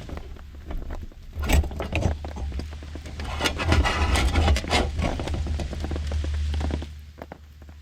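Rain dripping and pattering on a tarp, as scattered sharp taps. In the middle, louder rustling and knocking sounds of handling gear join it.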